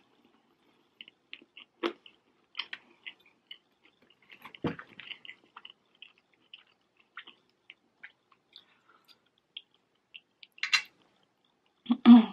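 A person chewing and biting into salt and pepper chips and chicken close to the microphone: scattered soft crunches and mouth clicks, the loudest about two and five seconds in, with a louder short sound near the end.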